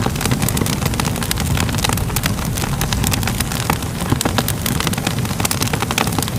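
Fire crackling, with many irregular sharp pops over a steady low rumble.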